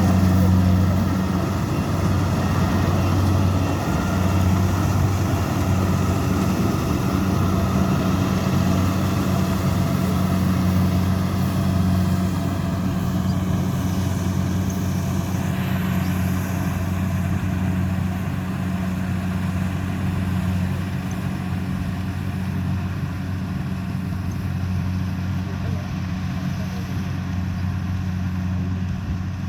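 Kubota G68 combine harvester's diesel engine running steadily with a low, even hum, growing slightly quieter toward the end.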